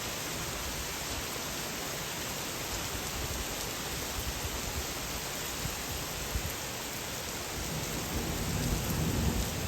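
Steady rain hiss during a thunderstorm, with a low rumble of thunder building over the last couple of seconds.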